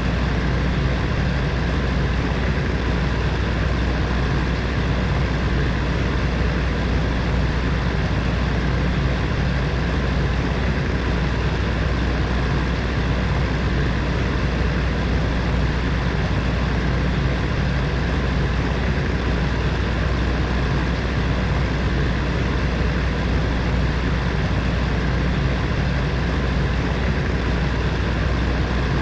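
Heater fan running steadily: an even rush of air over a low, constant hum, with no change throughout.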